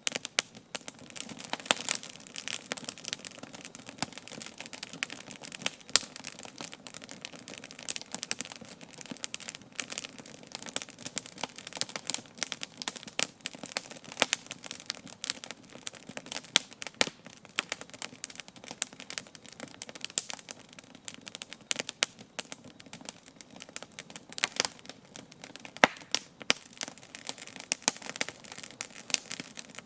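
Wood campfire crackling: a dense, irregular run of small pops and snaps over a soft hiss.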